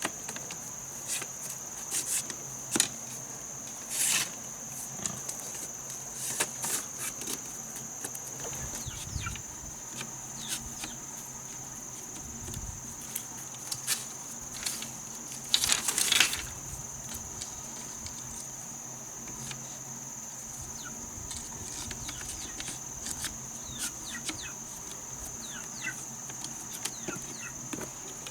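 A steady, high-pitched drone of insects, with scattered clicks and knocks over it, the loudest about four seconds in and again around sixteen seconds.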